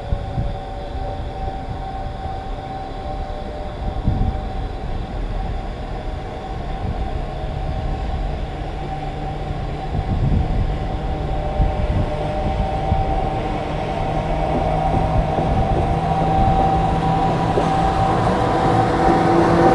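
Electric freight locomotive hauling a container train, approaching and passing close by. The running noise, with a steady hum, grows louder over the last few seconds as the locomotive and wagons draw level.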